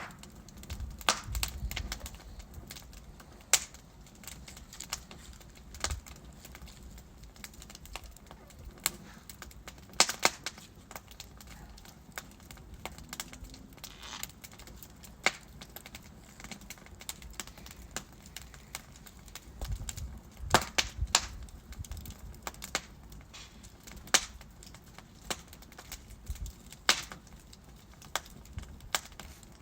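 Wood fire burning in a fireplace, logs crackling and popping at irregular intervals over a low, steady rumble of the flames, with a few louder pops and soft low thumps.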